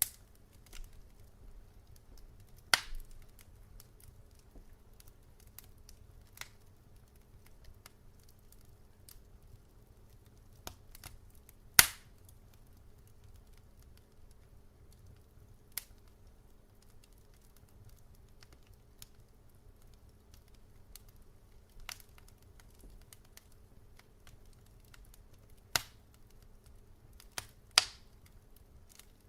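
Logs burning in a fireplace, crackling: sparse sharp pops and snaps at irregular gaps of a few seconds, the loudest about twelve seconds in, over a faint steady low hum.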